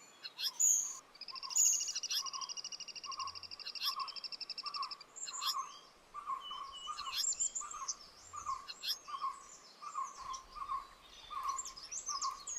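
Birds calling: a string of short, evenly repeated mid-pitched notes and scattered quick high chirps. A steady, fast-pulsing trill starts about a second in and stops about five seconds in.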